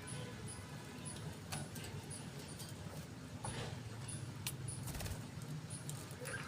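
Budgerigars in a cage: scattered clicks and taps with short, faint, high chirps, over a low steady hum.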